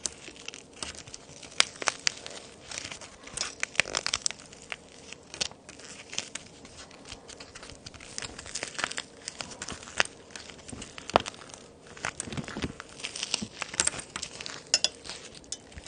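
Toy cookies made of plaster and clay being broken apart, with irregular sharp snaps and gritty crumbling crackle. The loudest snaps come about 2, 4, 10 and 11 seconds in.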